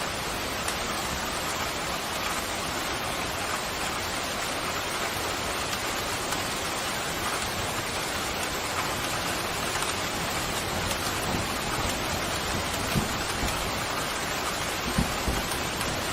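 Steady heavy rain falling and pattering on surfaces, an even hiss without let-up. A few short low thumps come near the end.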